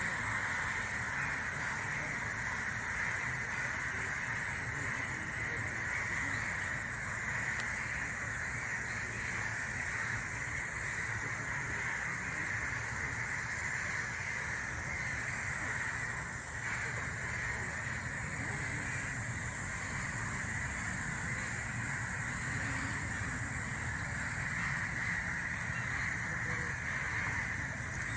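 Steady forest ambience: a continuous, even hiss-like drone, strongest in a high-middle band, over a low rumble, with a brief slight dip about two-thirds of the way through.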